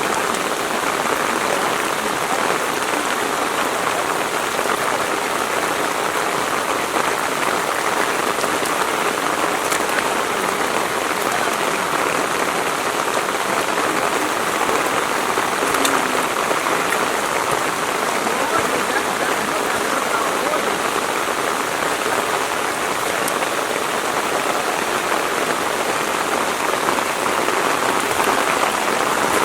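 Steady rain falling, an even rushing patter with a few sharper drops standing out.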